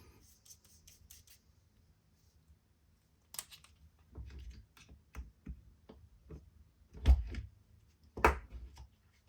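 Handling noises from a Wera Tool-Check Plus bit set and its plastic case: irregular clicks and scratches, then two louder knocks near the end.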